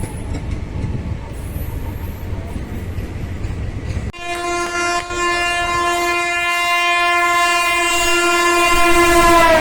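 A train's low rumble on the rails. About four seconds in it switches abruptly to one long, loud train horn blast that grows louder as the express approaches and drops slightly in pitch at the very end as it passes.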